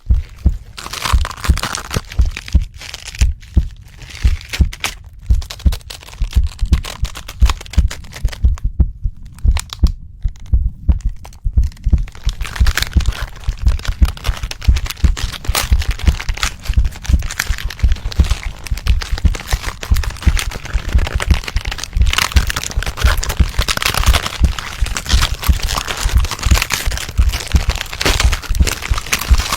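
Transformation sound effect: a fast, pounding heartbeat under a stream of cracking, crunching and crinkling sounds. The cracking thins out a few seconds in, then grows dense and continuous from about twelve seconds on.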